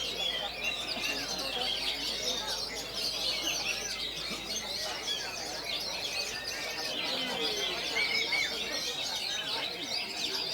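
Many caged oriental magpie-robins (kacer) singing at once: a dense, overlapping chorus of quick chirps and whistled phrases with no pause.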